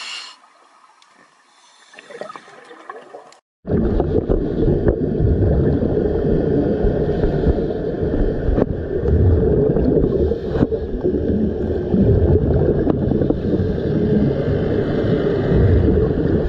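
Steady, loud, low rushing water noise with a few sharp clicks. It starts abruptly after a brief break about three and a half seconds in; before that the sound is quieter.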